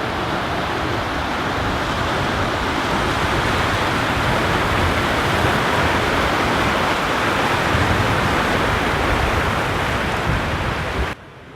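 Waterfall's steady rushing roar, a dense, even noise that cuts off suddenly near the end.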